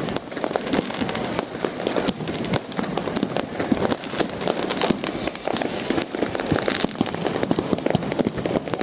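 Fireworks going off continuously: a dense, unbroken stream of bangs and crackles with no pause.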